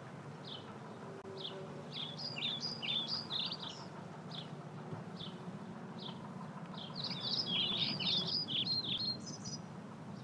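Songbirds singing: scattered single high chirps, with two bursts of rapid twittering song, one about two seconds in and another around seven seconds in, over a faint steady low background hum.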